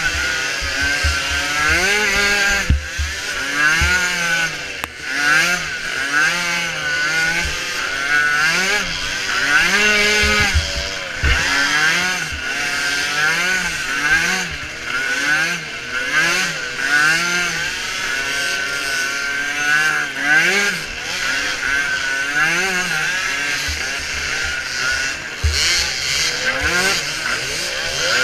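Small engines of micro ATVs racing, revving up and falling back over and over, rising and dropping in pitch every second or two as the throttle is worked.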